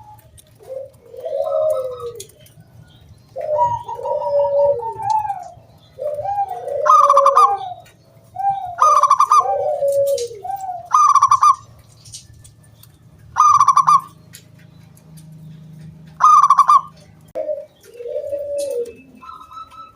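Zebra dove (perkutut) cooing its song: phrases of short rolling coos that bend down in pitch, each led or capped by a loud, clear high 'kung' note, repeated about every couple of seconds with short pauses between.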